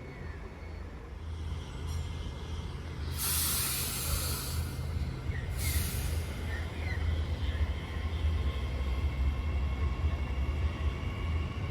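Mariyung D set electric train humming steadily at the platform, with two loud bursts of air hiss about three and five and a half seconds in as its air brakes release, followed by faint whining tones as it gets ready to move off.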